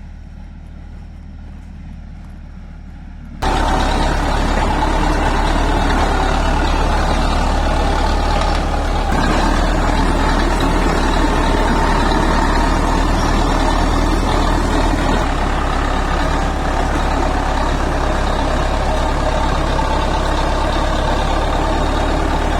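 Loud, steady diesel engine noise of heavy road-construction machinery, starting abruptly about three seconds in after a low hum.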